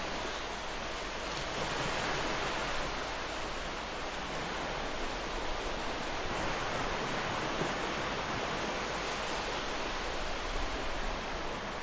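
Ocean surf: waves breaking and washing ashore in a steady rush, swelling a little about two seconds in.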